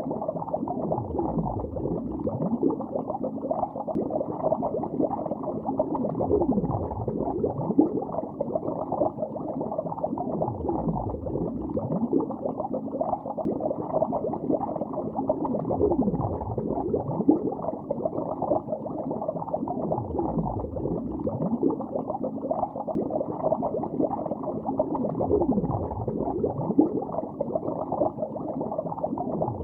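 Continuous underwater bubbling: a dense stream of bubbles heard from beneath the surface, muffled, with a deeper gurgling surge about every five seconds.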